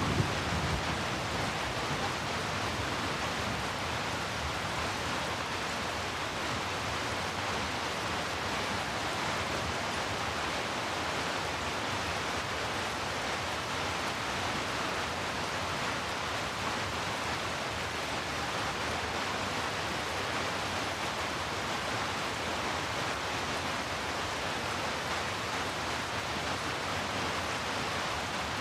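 Steady rain falling as an even, unbroken hiss, with the tail of a low thunder rumble dying away at the very start.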